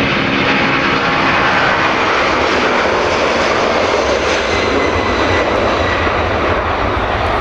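Jet engines of a large cargo plane, a loud steady roar with a thin high whine running through it; the deep rumble grows in the second half.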